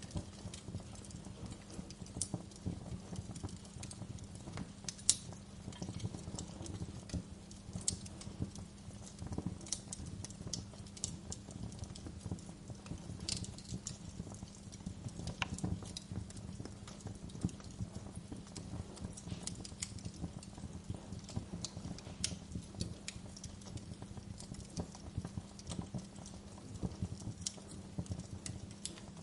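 Wood fire crackling in a fireplace: a low steady rumble of burning with irregular sharp pops and snaps scattered throughout, the loudest about five seconds in.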